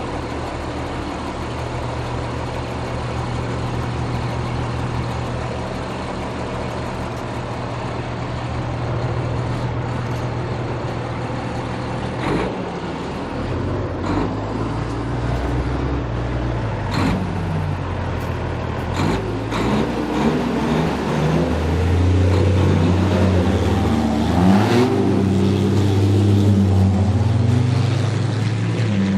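Heavy rally trucks' diesel engines running at the start line, a steady low drone at first; in the second half an engine note rises and grows louder as a truck revs and moves off. A few sharp clicks sound in between.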